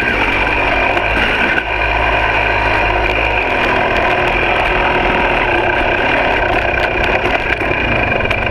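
Two-stroke dirt bike engine running steadily, its pitch shifting a little in the first couple of seconds.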